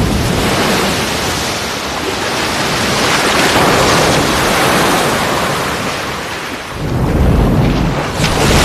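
A big wave pushed up by killer whales rushing and washing over an ice floe. A deeper rumbling surge of water swells about seven seconds in.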